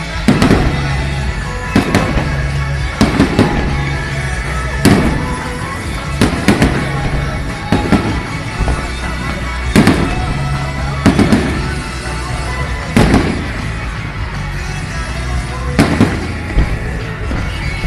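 Fireworks bursting in a rapid series of sharp bangs, about one every one to two seconds, each with an echoing tail, over pop music played through loudspeakers for the show.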